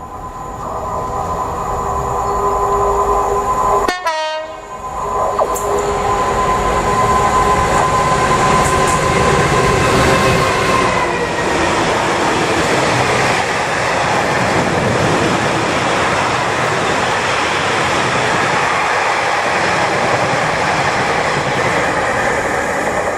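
A train passing close by. A steady chord of tones drops in pitch about eleven seconds in as the train goes past, and is followed by loud rushing wheel-on-rail noise. The sound breaks off briefly about four seconds in.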